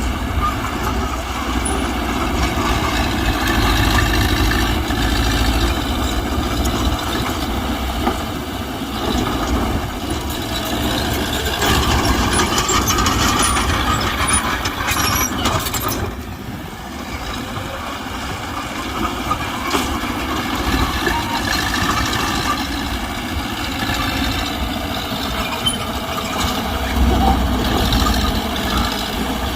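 Diesel engine of a Mitsubishi BD2G bulldozer running hard as it works, its loudness rising and falling, with a brief easing about halfway through.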